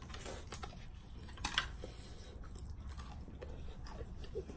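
Soft eating sounds: chewing, with a few light clicks, the clearest about one and a half seconds in.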